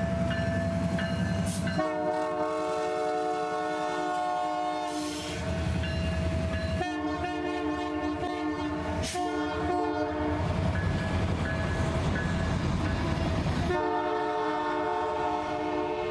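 Locomotive air horn blowing three long blasts as the train passes close by, over the low rumble of the train.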